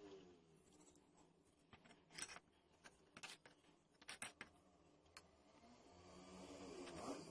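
Faint scattered clicks and taps, then a small motor whirring up near the end.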